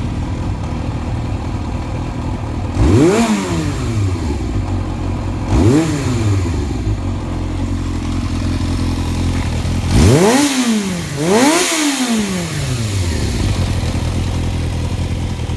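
Yamaha XJR400 air-cooled inline-four motorcycle engine idling, blipped on the throttle four times: each rev climbs quickly and falls back to idle, the last two about a second and a half apart.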